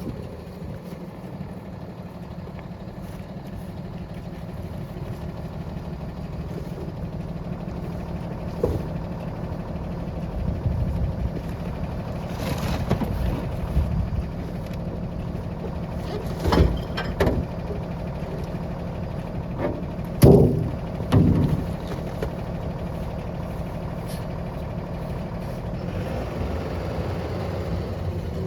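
Small rear-loader garbage truck's engine running steadily while the packer compacts a load of recycling. The engine note rises about a third of the way in, and there are several loud crashes and clatters of recycling being crushed in the hopper through the middle, the loudest about two thirds in.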